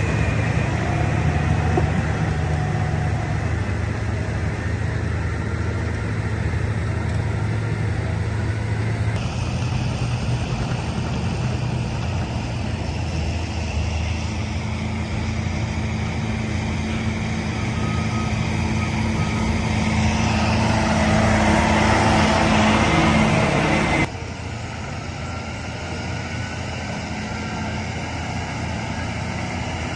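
Engine of heavy construction machinery running steadily. The sound changes abruptly about nine seconds in and again near the end.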